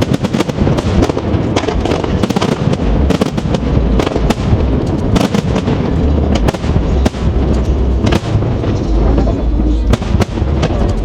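A dense fireworks barrage: many bangs and cracks a second, overlapping, over a continuous low rumble.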